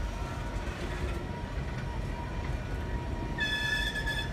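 Train rolling slowly with a steady low rumble from the wheels on the rails; about three seconds in, a high, steady wheel squeal sets in.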